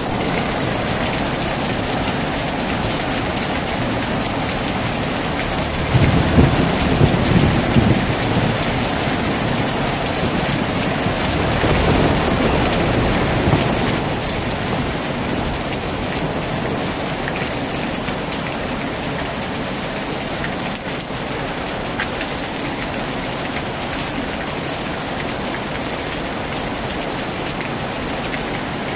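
Heavy rain falling steadily, with a low rumble of thunder about six seconds in and another around twelve seconds.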